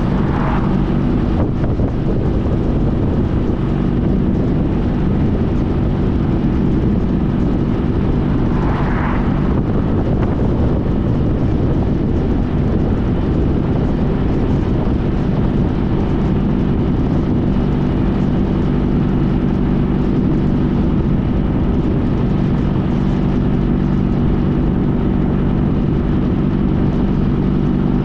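Honda CTX1300's V4 engine running at a steady cruising speed, with road and wind noise. Two brief higher-pitched sounds come near the start and about nine seconds in.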